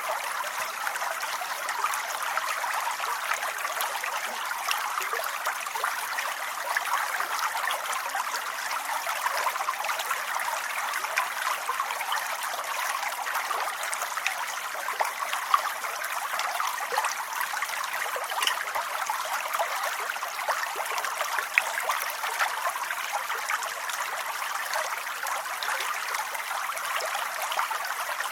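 Steady rain: a dense, even patter of drops that never lets up, with the odd louder drop standing out.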